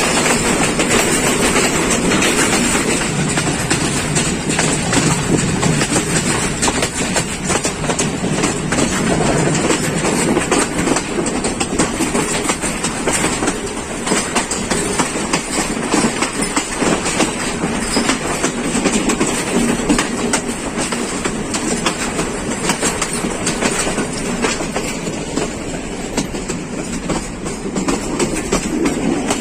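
Passenger train running at speed: a steady rumble with the wheels clattering over the rail joints.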